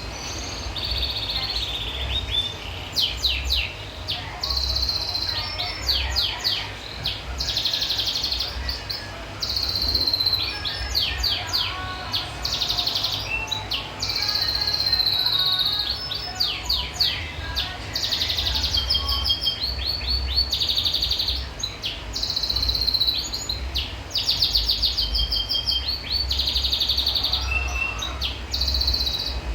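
A finch singing on and on: fast, high chirping trills and buzzy held notes in short phrases, one after another with brief pauses, over a low rumble.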